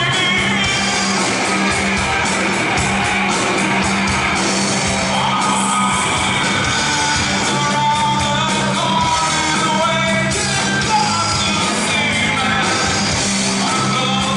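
Rock music played live: a band with a singer, in a loud, dense full mix over a steady bass line.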